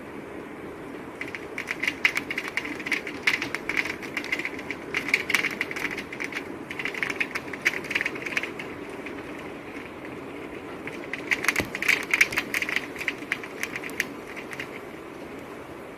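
Steady rain with spells of rapid, crackling drop ticks close by, the first from about a second in and the second from about eleven seconds in.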